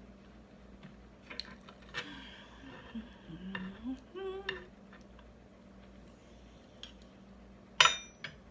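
Cutlery tapping and clinking against a plate while eating, a scatter of light taps followed by one sharp, ringing metallic clink near the end.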